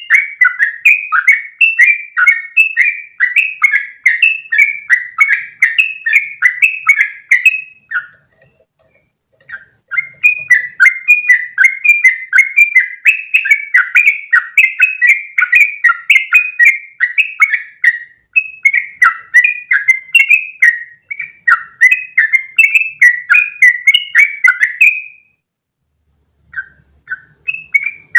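Yellow-vented bulbul (trucukan) singing long, fast runs of bubbly repeated notes, several a second. The song breaks off twice, about eight seconds in and again near the end, then resumes.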